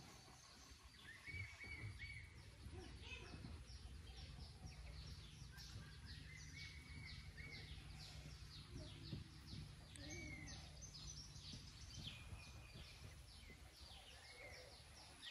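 Faint rural ambience with birds calling: a running series of quick high chirps and, now and then, a short arched whistle.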